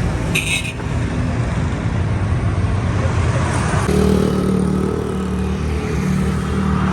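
Road traffic: vehicle engines running and passing, with a steady engine hum that comes in about four seconds in.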